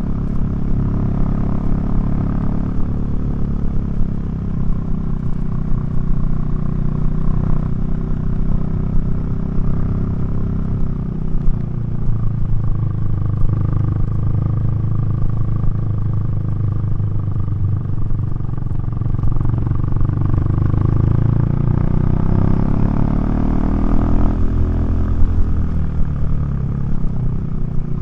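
KTM 390 Duke single-cylinder engine and exhaust on the move, its note falling and then climbing steadily as the revs change, with a sudden drop in pitch about 24 seconds in.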